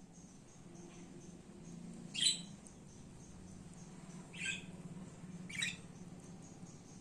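Budgerigar giving three short squawking calls, the first about two seconds in and the loudest, the other two close together past the middle, over faint soft ticking.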